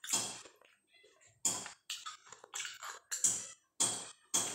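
A person chewing a mouthful of rice and cooked greens close to the microphone, open-mouthed, with wet lip smacks. There are about seven smacks, each half a second to a second apart.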